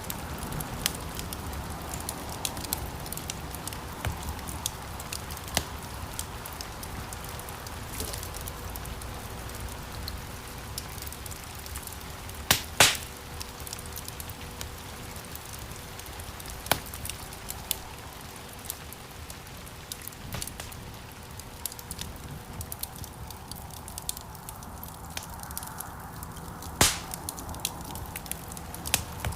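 Wood fire crackling in a fireplace: a steady hiss of burning logs with frequent small pops and clicks, and two louder snaps, one about 13 seconds in and one near the end.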